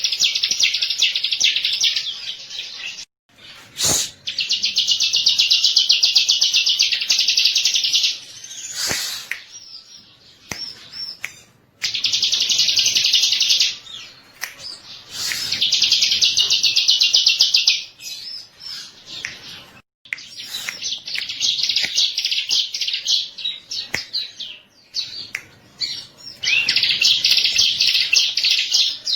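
Bar-winged prinia (ciblek) singing: about six loud bouts of very fast, high chattering trills, each lasting a few seconds, with short sharp single notes in the pauses between them.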